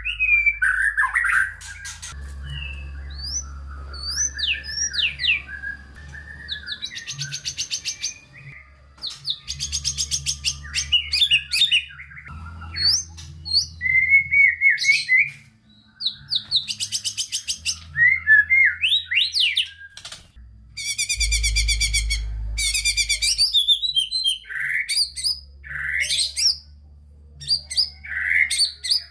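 White-rumped shama (murai batu) singing a long, varied song packed with mimicked phrases: quick whistled up- and down-slurs, broken several times by rapid rattling trills about a second long.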